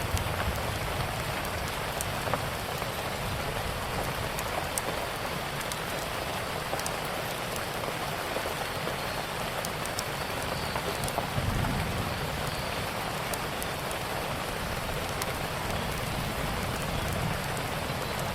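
Steady rain falling on a surface, with scattered small sharp clicks and a brief low rumble about two-thirds of the way through.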